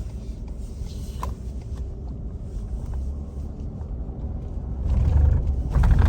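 Low road and engine rumble of a moving vehicle heard from inside the cabin, swelling louder about five seconds in.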